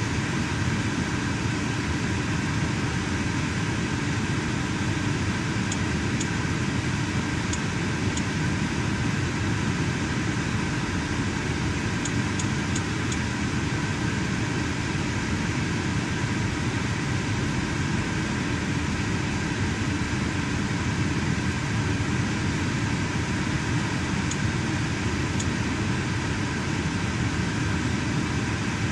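Lincoln car idling steadily with its air conditioning blowing, a constant hum with no change. The owner reports a misfire at this idle since a tune-up, but the scan tool finds no misfire.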